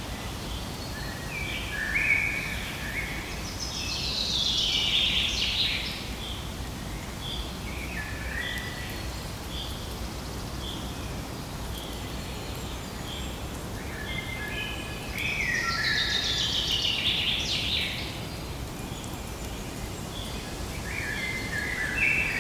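Songbirds singing: two long song phrases with falling runs about four and sixteen seconds in, and a shorter phrase near the end, over a short high chirp that repeats about once a second and a steady low rumble.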